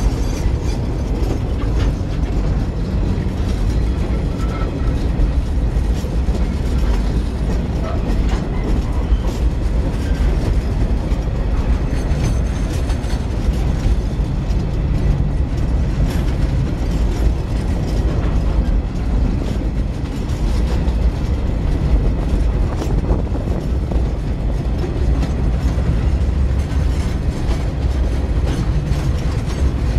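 Freight train wagons rolling past at close range: a steady low rumble from the wheels on the rails, with frequent clicks, knocks and rattles from the bogies and couplings.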